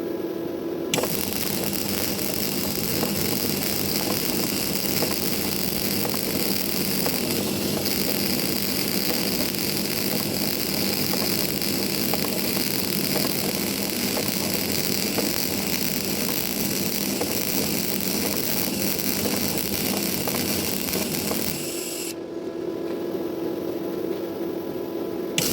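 MIG (semi-automatic) welding arc crackling steadily for about twenty seconds, starting about a second in and stopping abruptly near the end. A quieter steady machine hum is left before and after the weld.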